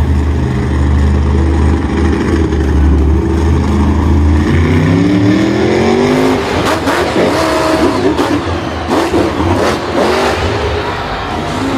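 Vehicle engine running, then revving up with a rising pitch about four to six seconds in, followed by a rougher stretch with several knocks and clatter.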